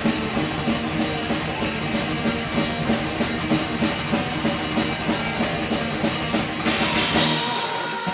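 Live rock band, drum kit, guitar and bass, playing the last bars of a song with a steady driving beat. About seven seconds in a cymbal crash rings out as the drums and bass stop, leaving one held note ringing.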